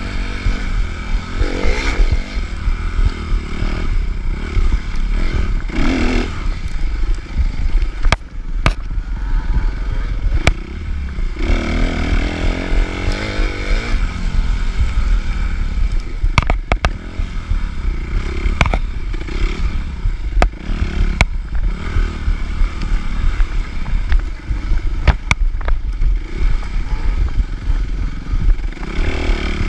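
Suzuki RM-Z250 dirt bike's single-cylinder four-stroke engine running hard through a motocross lap, the revs rising and falling with the throttle, mixed with sharp knocks and clatter from the bike over the rough track.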